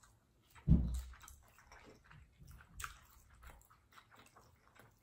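Close-miked chewing: wet mouth smacks and small squishy clicks from people eating, with one louder low thump a little under a second in.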